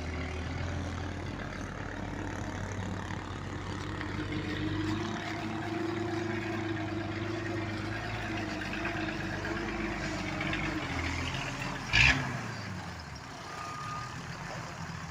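A heavy truck's engine runs steadily, its pitch rising a little a few seconds in and then holding. About three-quarters of the way through there is a single short, loud burst.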